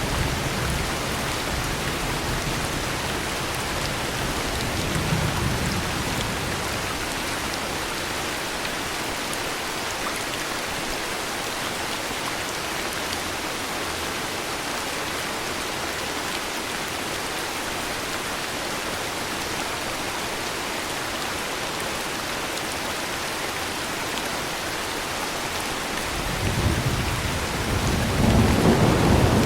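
Heavy rain falling steadily, with low thunder rumbling at the start that fades away, and a new roll of thunder building up and growing louder near the end.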